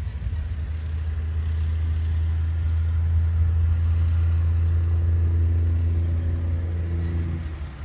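Tractor engine running steadily with a low hum, getting louder through the middle and falling off near the end.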